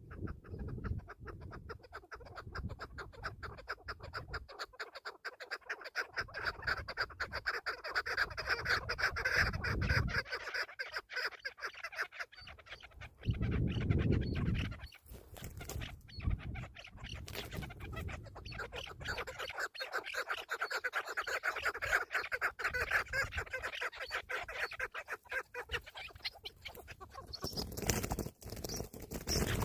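Chukar partridges calling, a long run of quick repeated chuck notes, with low rumbling on the microphone that is strongest about 13 seconds in.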